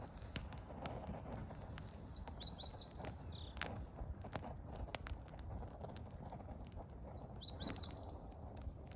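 Wood fire crackling with scattered sharp pops. A small songbird sings the same quick, high twittering phrase twice, a few seconds apart.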